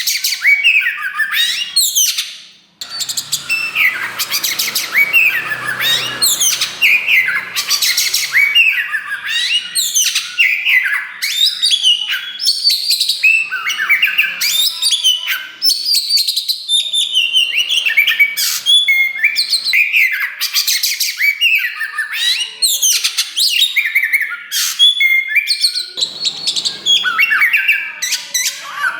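Oriental magpie-robin of the black 'kacer wulung' form singing a loud, rapid, varied song of quick whistled notes, slurs and trills, with a short pause about two and a half seconds in.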